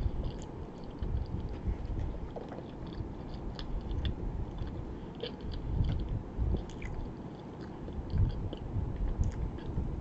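A person chewing a mouthful of chewy pizza close to the microphone, with small wet mouth clicks scattered through it.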